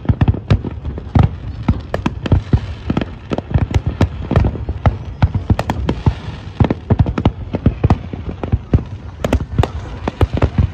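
Aerial fireworks display: a rapid, unbroken run of bangs from many shells bursting, several a second.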